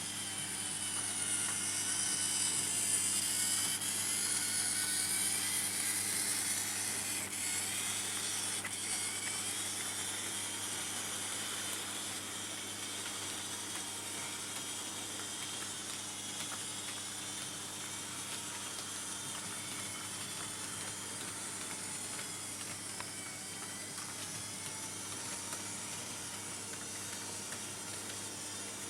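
Märklin H0 model trains running on metal M-track under AC analogue control: the motors whine and hiss with a wavering pitch, over a steady low hum. The sound is louder during the first several seconds, then evens out.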